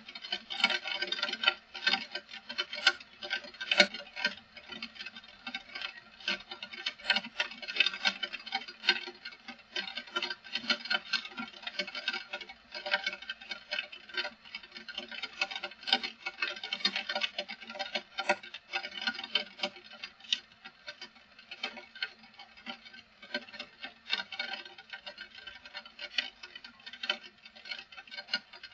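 Heavy rain: a dense, irregular pattering of drops striking a hard surface.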